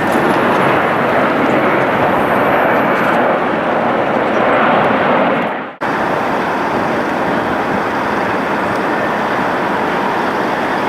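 Jet airliner engines, a loud steady rushing noise that breaks off sharply about six seconds in and cuts straight back in.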